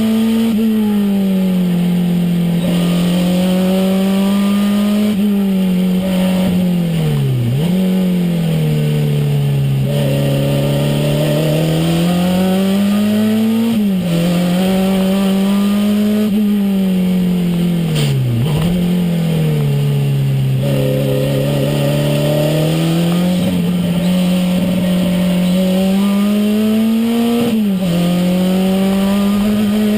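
Renault 5 Turbo's turbocharged four-cylinder engine heard from inside the cabin while driving hard on track. The revs climb and fall in repeated sweeps, with a sudden drop and quick pick-up four times as the driver shifts or lifts off.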